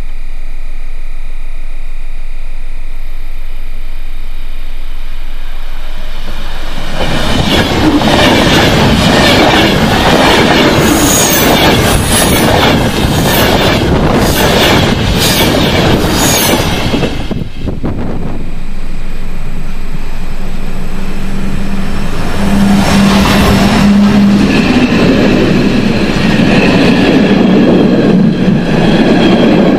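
A passenger train runs past close by: after a steadier, quieter start, loud rushing and rail noise sets in about seven seconds in, with rapid wheel clacks over the track for several seconds, a short lull, then more rushing with a steady hum as the coaches keep passing.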